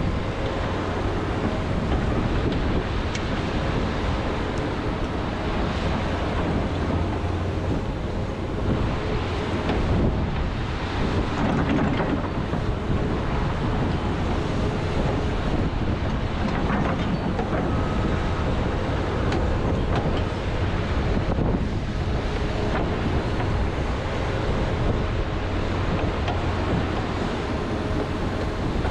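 John Deere 210G excavator's diesel engine running steadily under load, with scattered knocks and scrapes as the bucket breaks up frozen peat moss.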